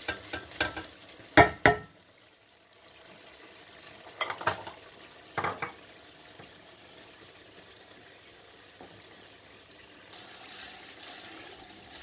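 Spiced onion-tomato masala sizzling in oil in a steel pan while a wooden spatula stirs it, knocking against the pan. There are a few sharp knocks in the first two seconds and two more around the middle, then a steady frying sizzle.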